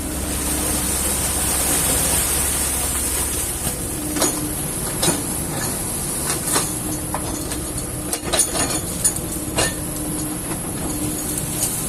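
Kobelco excavator working, its engine a steady low drone with a hum that comes and goes, and irregular sharp knocks from about four seconds in.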